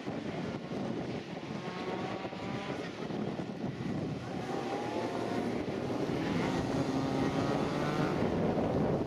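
Citroën Saxo N2 slalom car's four-cylinder engine revving hard through the course, its pitch climbing several times as it accelerates between gear changes. Wind noise on the microphone partly covers it.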